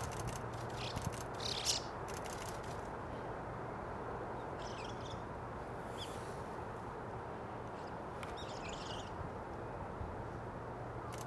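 Short, scattered bird calls and chirps, mostly in the first few seconds, over a steady background hiss with a low hum.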